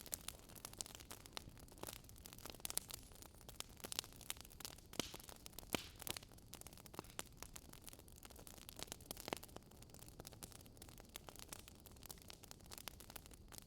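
Wood fire crackling, with irregular sharp pops and snaps several times a second, over a low, steady rush of storm wind.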